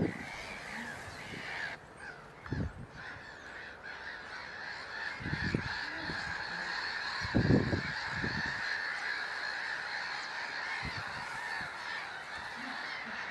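A wetland flock of waterbirds calling together in a steady chorus, with a few short, louder, low sounds standing out about two and a half, five and a half and seven and a half seconds in.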